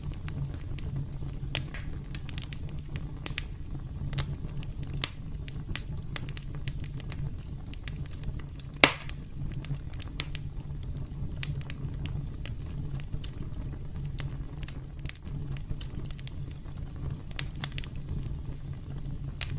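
Campfire crackling, with irregular sharp pops and snaps of burning wood over a steady low rumble of the flames. One much louder pop comes about halfway through.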